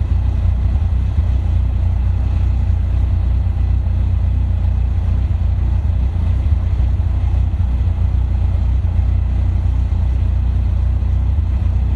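Caterham Seven's engine idling steadily while the car stands still, a low, even rumble close to the microphone.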